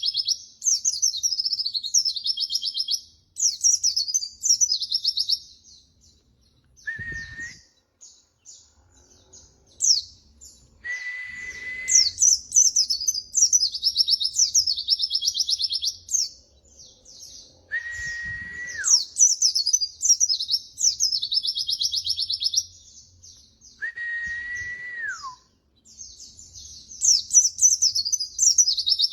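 White-eye (pleci) song: long runs of rapid, high twittering chirps broken by short pauses. Four times, a lower steady whistle of about a second sounds, the later ones sliding down at the end.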